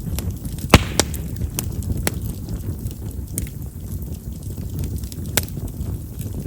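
Chestnut firewood crackling in a campfire: sharp scattered pops, the loudest just under a second in, with a few more over a steady low rumble. Chestnut's large vessels make it a wood known for popping as it burns.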